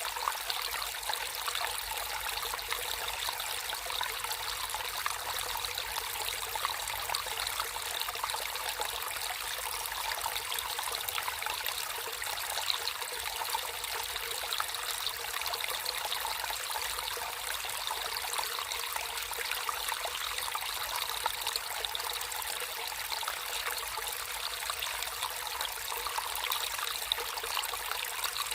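Water flowing and trickling steadily in a natural stream, a constant splashing babble without pause.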